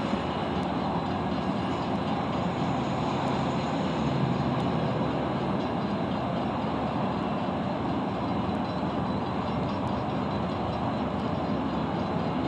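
Portland & Western mixed freight train rolling past, a steady rumble and rush of wheels on the rails.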